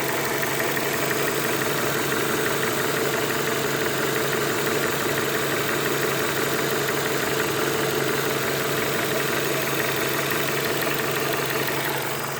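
Renault Mégane II engine idling a little cold, with a knock from the engine block just beginning to show. The owner has ruled out the camshaft, and a loose connecting rod is the suspected cause.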